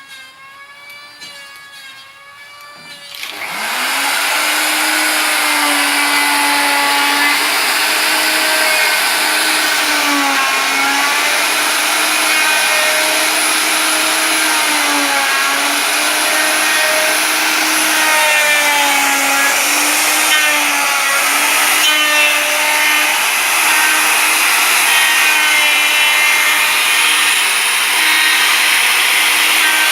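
An electric power tool starts about three seconds in and runs steadily while cutting into a wooden spear-gun stock, its pitch dipping and rising as the load on it changes.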